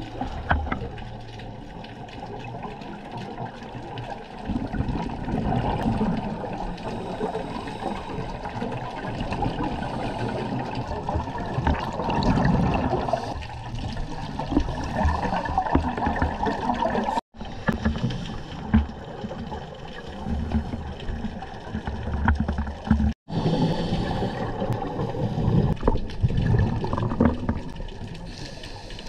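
Underwater sound heard through a GoPro housing: a scuba diver's regulator bubbles gurgling in swells that come and go every few seconds. The sound cuts out for an instant twice.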